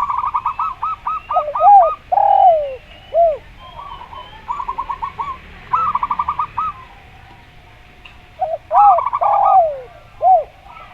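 Zebra dove (perkutut) and spotted dove (derkuku) cooing in turn. Quick runs of short, clipped coos alternate with lower, drawn-out coos that fall in pitch, with faint chirping of other birds behind.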